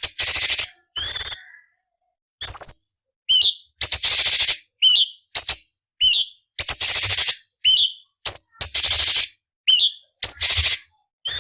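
Orange-bellied leafbird (cucak cungkok) singing a rapid string of short phrases. Harsh, scratchy rasping notes alternate with brief upturned whistles, each phrase cut off by a short silence.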